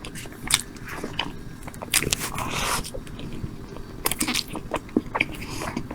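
A person chewing soft tiramisu close to the microphone, with scattered wet mouth clicks and smacks. A short breathy hiss comes about two seconds in.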